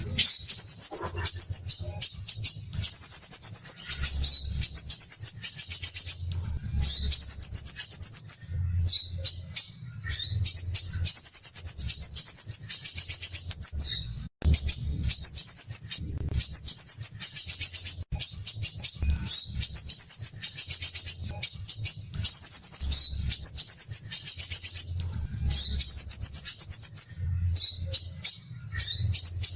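Crimson sunbird singing its dense, rapid, high-pitched rattling trill in repeated phrases of one to two seconds, separated by short gaps.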